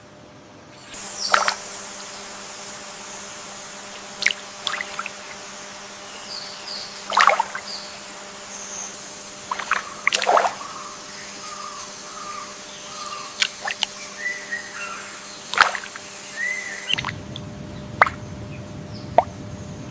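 Water ambience: scattered drips and plops over a steady background hiss, with a few short bird chirps. About three seconds before the end the background turns to a lower rushing noise.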